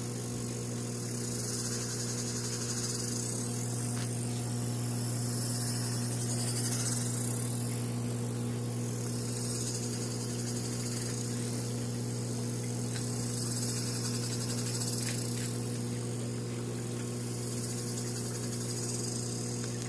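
EcoTech Marine VorTech MP40 wave pump's dry-side motor running with a steady low hum and a high, insect-like buzzing hiss over it. This is an unwanted noise from the pump's dry side.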